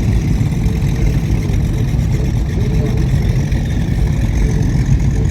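Steady low rumble of big powerboat engines idling.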